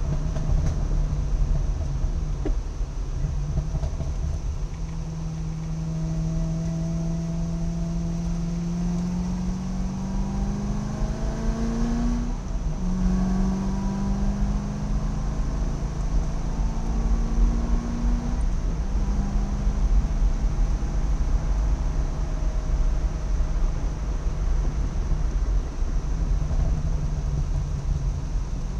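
Car engine heard from inside the cabin on a track lap, over steady road and wind noise: the engine note climbs steadily, dips sharply at a gear change about halfway through, climbs again, then falls away and holds steady for the rest.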